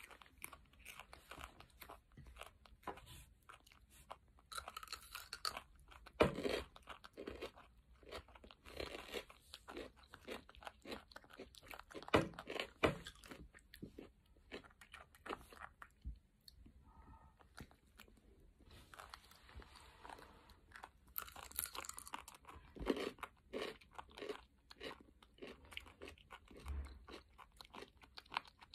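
Crisp crunching and chewing of raw red radishes, bites and chews coming in quick, irregular succession, with a quieter lull a little past the middle.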